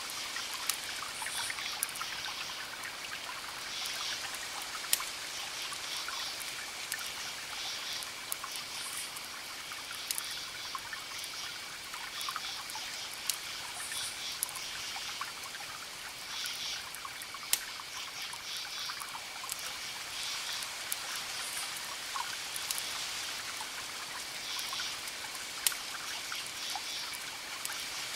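Crackling wood fire with scattered sharp pops, a few much louder than the rest, over a steady watery hiss like rain or a trickling stream. Short high chirping calls recur every second or two, with a faint steady high tone beneath.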